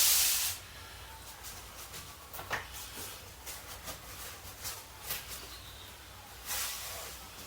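Two short bursts of hissing, a loud one ending about half a second in and a fainter one near the end, with scattered light clicks and knocks between.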